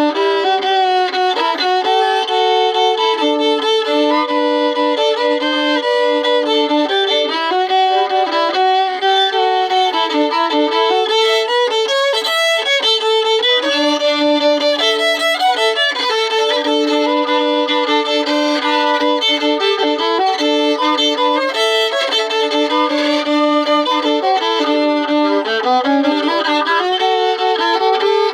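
Solo fiddle played with a bow for a continuous stretch, with two strings often sounding together as double stops. The player is a learner working toward a Cajun fiddle style.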